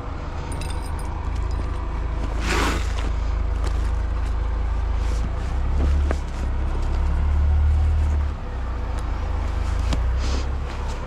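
Heavy diesel engine running with a deep, steady low rumble that swells for about two seconds near the middle, with a short hiss about two and a half seconds in.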